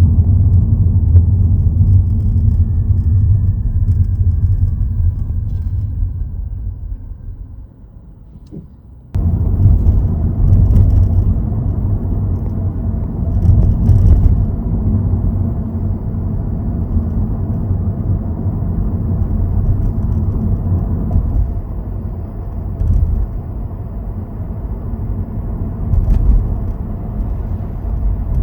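Nissan Aura on the move: a steady low rumble of driving and road noise. It fades away about six to eight seconds in, then comes back suddenly and carries on.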